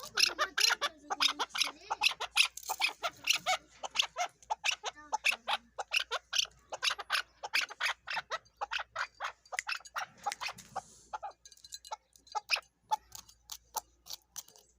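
Chukar partridge calling: a rapid run of short, sharp chuk notes, about four a second, with a brief lull about three-quarters of the way through.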